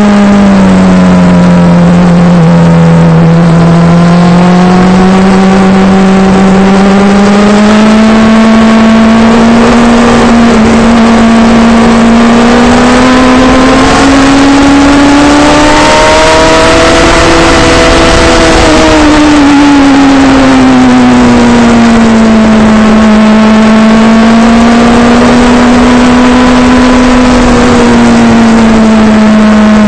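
Suzuki GSX-R sportbike's inline-four engine, heard from a camera mounted on the bike while riding at a steady part throttle. The engine note dips early on, climbs slowly to a peak about halfway through, then falls and settles, with wind rush swelling at the higher revs.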